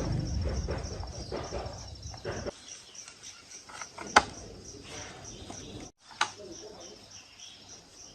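Insects chirping, a high pulse repeating about four times a second, under two sharp clicks about two seconds apart.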